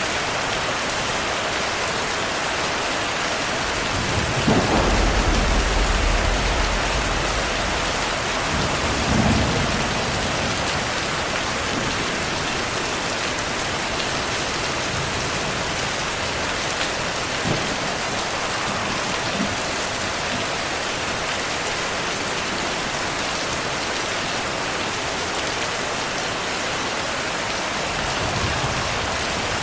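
Thunderstorm: steady heavy rain, with a deep roll of thunder about four seconds in that lasts a few seconds, a shorter rumble around nine seconds, and a faint one near the end.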